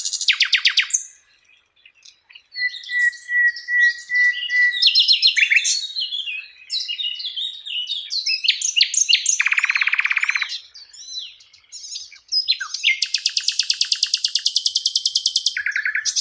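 Sikatan londo flycatcher singing a varied, energetic song: quick chirps and phrases, a steady held whistle, and fast trills, with a long buzzing high trill near the end, after a short pause about a second in.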